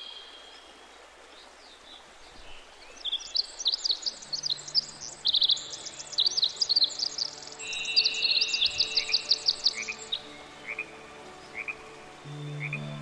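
Forest songbirds singing: a rapid run of high chirping notes from about three seconds in to about ten, then a few spaced chirps. Soft background music with held low notes comes in underneath about four seconds in and swells near the end.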